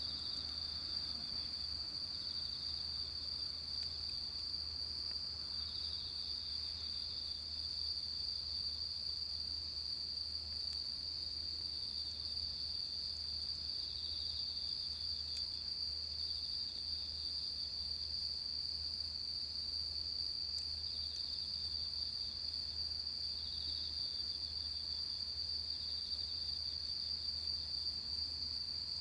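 Insects trilling: one high, steady trill, with a second, slightly lower pulsing trill that comes and goes in bouts of a few seconds.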